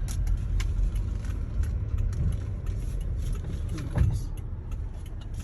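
Car on the move: a steady low rumble of engine and road noise, with a few faint clicks.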